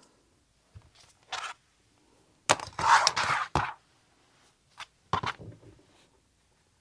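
Fabric being handled and a ruler sliding over a cutting surface: a few short scrapes and rustles, the longest lasting about a second.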